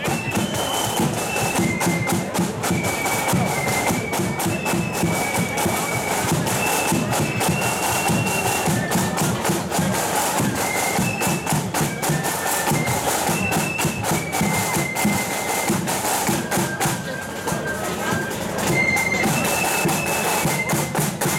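Marching flute band playing: a high flute melody of held notes over rapid snare strokes and bass drum.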